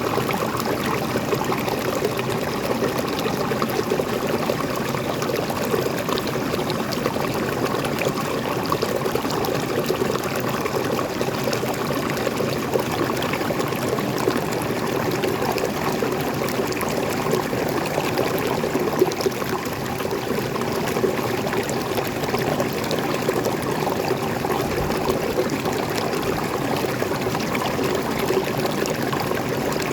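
Water of a small forest waterfall and stream flowing steadily, splashing and trickling with no break.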